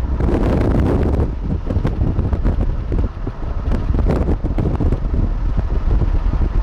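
Gusty wind buffeting the microphone: a loud, uneven rumble that swells and eases, with a brief lull about three seconds in.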